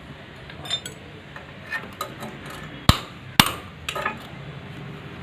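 Metal hand tools clinking and knocking against motorcycle engine parts during engine work: a string of sharp separate taps, the two loudest close together about three seconds in.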